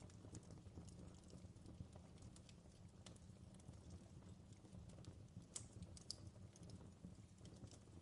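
Faint wood campfire crackling, with irregular small pops and snaps over a low steady rumble and a couple of sharper pops about two-thirds of the way through.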